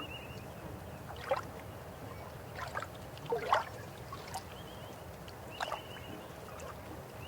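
River water running steadily, with irregular gurgles and splashes about five times. A bird gives short trilling chirps at the start and again around the middle.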